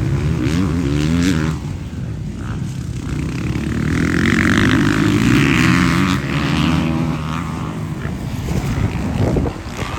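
Motocross bikes racing, their engines revving up and down; the sound is loudest about halfway through.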